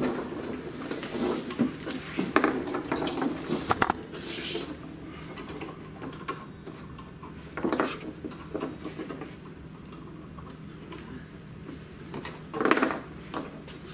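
Light clattering and knocking of small objects being handled, busiest in the first few seconds, with two louder scraping knocks later, over a steady low hum.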